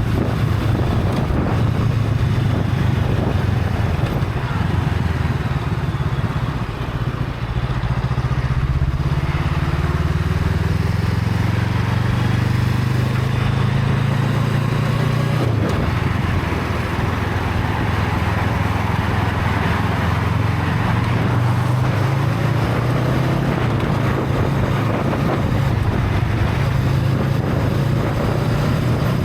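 Honda Rebel 500's parallel-twin engine with its stock exhaust, running while riding. Its pitch climbs steadily for several seconds about a third of the way in, then drops off suddenly about halfway through and settles into a steady drone.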